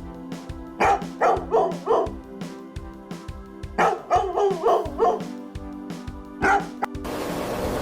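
Dog barking: about ten short barks in three quick runs over background music with held notes. Near the end the barking gives way to a steady hiss.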